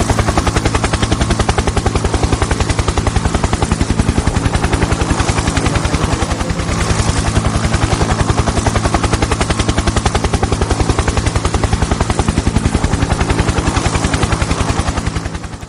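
Helicopter rotor sound, a steady rapid chopping beat over a low engine drone, cutting off suddenly at the end.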